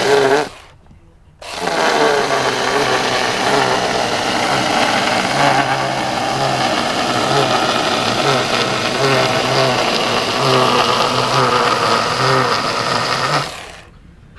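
Battery-powered electric chainsaw cutting into a wood slab, carving the outline of sign lettering. It stops briefly about half a second in, starts again about a second later and runs steadily, then cuts off near the end.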